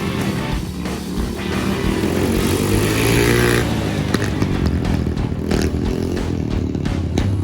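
Small dirt bike engine revving up and down as it is ridden, its note climbing about two to three seconds in, then dropping off.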